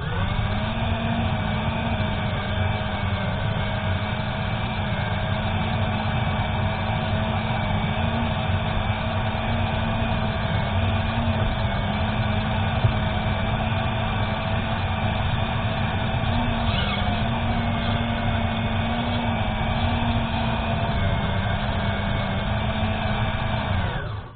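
Small electric drive motor and gearbox of an RC Bruder toy tractor running steadily with a constant whine, pitch dipping briefly about two-thirds of the way through.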